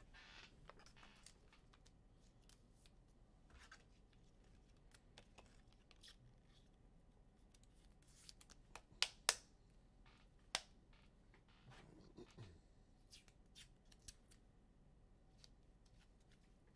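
Faint handling of trading cards and plastic card sleeves: scattered small rustles and clicks, with a few sharper clicks about nine to ten and a half seconds in.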